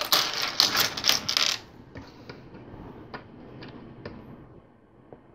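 Loose plastic LEGO pieces rattling and clattering together for about a second and a half, as if stirred or rummaged through by hand, followed by a few separate light clicks of single pieces being handled.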